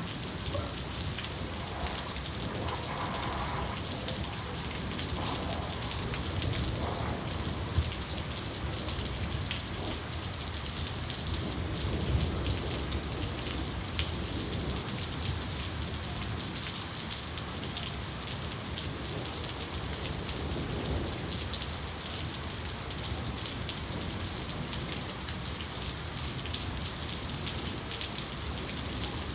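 Rain falling steadily, a dense patter of drops, with a soft low rumble of thunder swelling briefly about halfway through.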